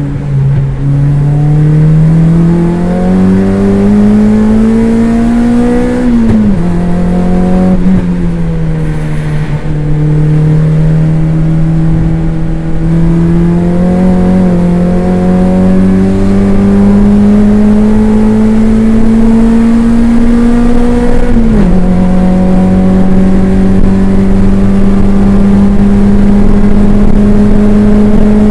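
Toyota MR2 race car engine heard from inside the car, pulling hard under load with its pitch climbing slowly. Two upshifts drop the revs sharply, about six seconds in and again near twenty-one seconds, before it pulls on.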